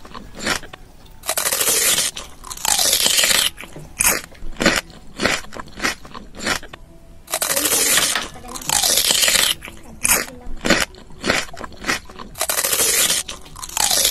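Close-up eating sounds from a fast-food meal: crunchy biting and chewing of burgers, nuggets and fried snacks, with many short crunches and three louder stretches of crunching about two seconds long each.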